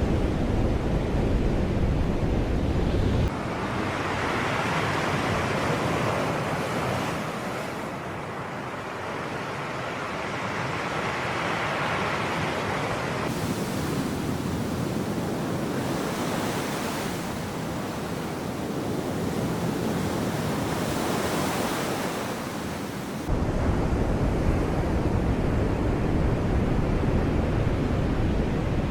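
Sea waves washing onto the shore, the surf swelling and ebbing every few seconds. A heavy wind rumble on the microphone fills the first three seconds, drops out suddenly, then cuts back in at about twenty-three seconds.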